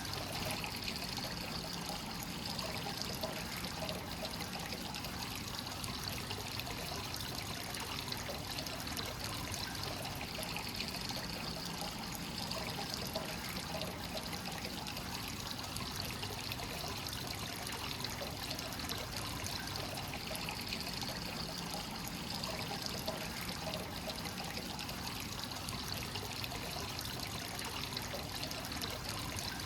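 Hot spring water flowing continuously into an onsen bath, a steady pouring and trickling with no change in flow.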